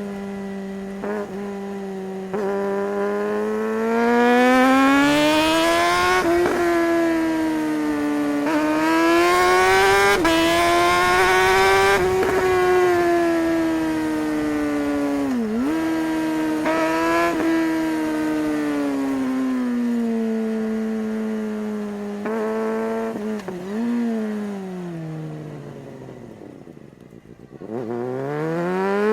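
Suzuki GSR600's inline-four engine, heard on board, revving up and easing off again and again. Twice, about halfway and about four fifths of the way in, the pitch dips sharply and recovers at once, as at quickshifted gear changes. Near the end it falls away and goes quieter, then revs up again.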